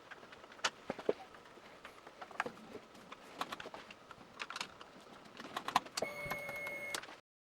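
Scattered small clicks and knocks of work on the motorcycle's handlebar area, then a steady electrical hum for about a second near the end before the sound cuts off abruptly.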